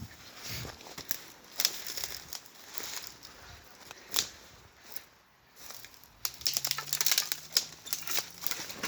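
Tall grass and brush rustling and crackling underfoot as someone pushes through it on foot, in scattered crunches that thicken into a denser run of crackling about six seconds in.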